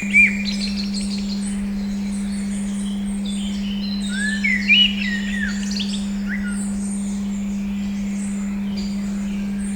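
A steady 200 Hz pure tone sounds throughout, with birdsong over it. Bursts of chirping come near the start and again between about four and six seconds in.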